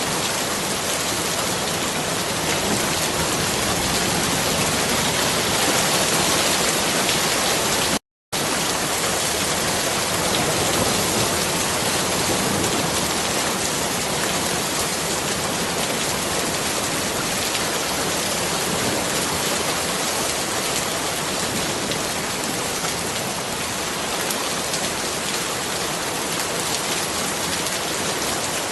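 Steady heavy rainfall, a dense even hiss of drops on surfaces. It cuts out completely for a split second about eight seconds in, then resumes.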